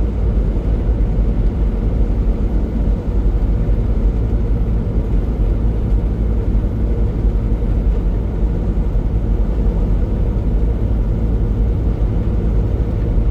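Truck's engine and road noise heard from inside the cab while driving: a steady low rumble with no change in pitch.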